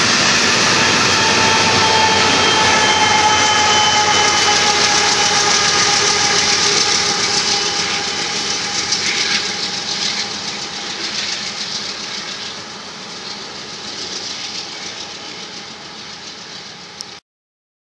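Union Pacific freight train of empty hopper cars rolling past on the rails, a steady loud rumble with a few steady ringing tones over it. The rear diesel locomotives pass, and the sound fades as the train moves away until it cuts off abruptly near the end.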